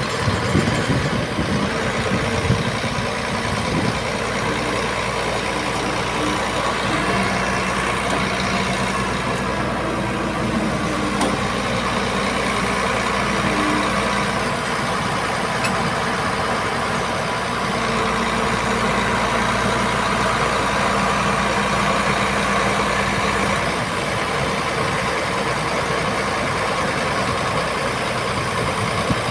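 Heavy truck diesel engine idling steadily, with a few knocks in the first couple of seconds.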